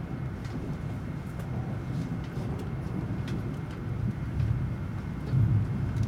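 Cabin running noise inside an N700 series Shinkansen car as it runs into a station: a steady low rumble with a few faint clicks, and a brief louder swell about five seconds in.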